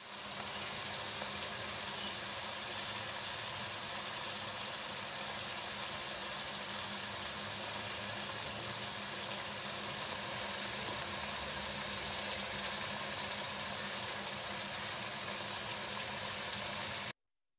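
Pork adobo sizzling in oil in a pan: a steady frying hiss, with a couple of faint pops.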